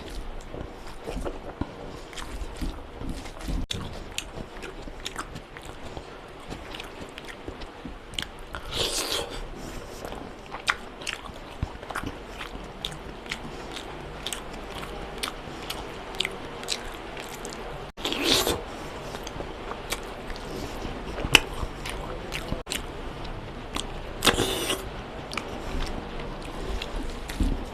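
Close-miked eating: a person chewing and biting mutton curry with rice, with many short wet smacking clicks and three louder noisy bursts spread through.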